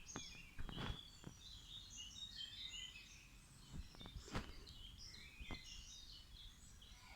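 Faint birdsong: many short, high chirps from several birds, with a few brief clicks or rustles close by.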